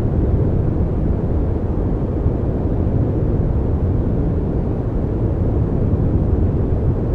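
Steady synthesized noise from a focus-and-masking noise track, even and unbroken, weighted heavily to the low end so that it sounds as a deep, soft rush rather than a bright hiss.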